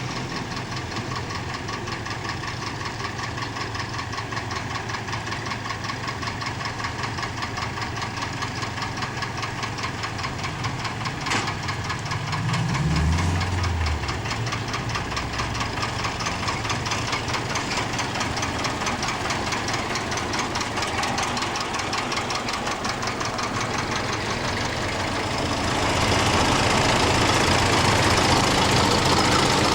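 Diesel tractor engine running steadily with a fast, even firing beat. It grows louder about three-quarters of the way through.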